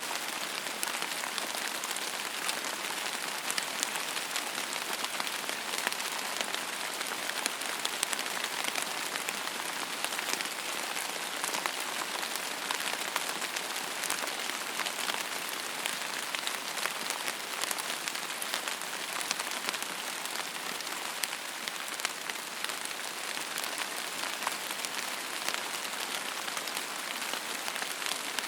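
Steady rain falling on a hard surface, an even hiss with many individual drops ticking through it.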